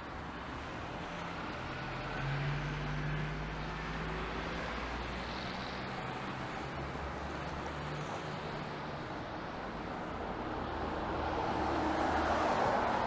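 Street traffic on wet pavement: a low engine hum for several seconds, then a vehicle swelling past near the end with tyre hiss.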